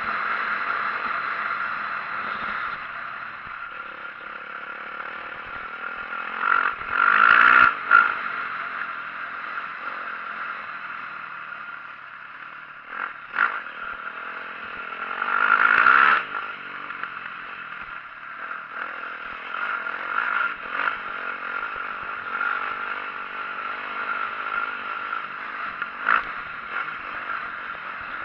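2004 Yamaha YZ450F dirt bike's single-cylinder four-stroke engine running on a trail ride, with clatter and rattling from the bike over rough ground. The engine swells louder and rises in pitch twice, about a quarter and about halfway through, as the throttle is opened.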